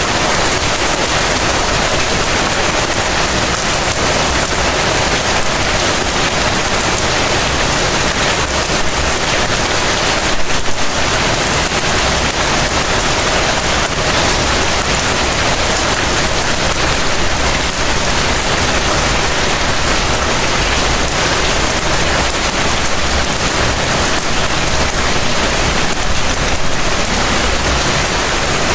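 Heavy rain falling steadily, a dense even hiss of drops with a low rumble underneath.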